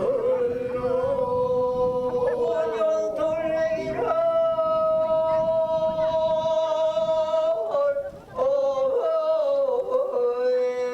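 A voice singing long, drawn-out held notes of a Korean traditional field song (deulsori), sliding up to a higher note about four seconds in and holding it. A short break comes before a final long note near the end.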